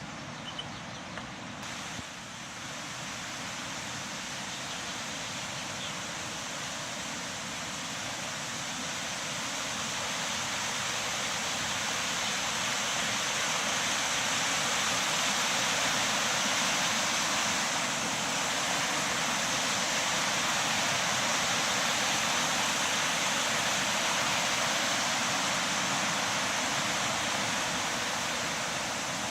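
Waterfall: steady rushing of falling water, growing louder about a third of the way in and then holding level.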